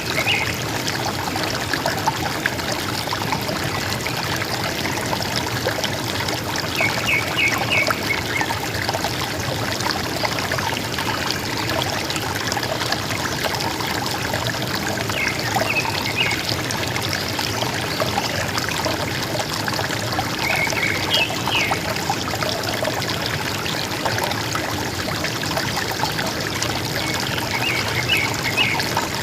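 River water gurgling and rushing steadily, with short bursts of bird chirps, quick high notes in small clusters, four times several seconds apart.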